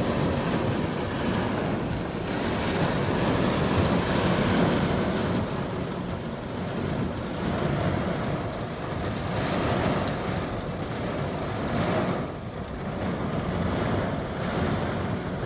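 Heavy thunderstorm rain pouring down on a car, heard from inside as a steady rush of noise that eases briefly about twelve seconds in.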